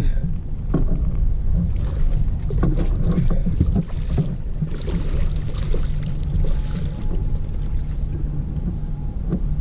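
Boat motor running steadily at trolling speed, a low rumble, with scattered knocks and clicks from handling on board.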